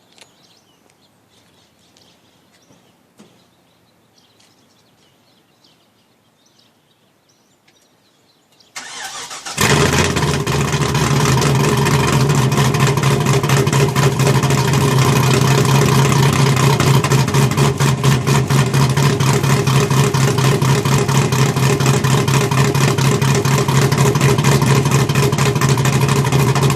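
Cold start of a 2005 Pontiac GTO's built 6.0 L LS2 V8 with a big cam: after several quiet seconds the starter cranks briefly, about nine seconds in, then the engine catches and settles into a loud, choppy big-cam idle. The exhaust runs through electric cutouts set about halfway open and Magnaflow mufflers.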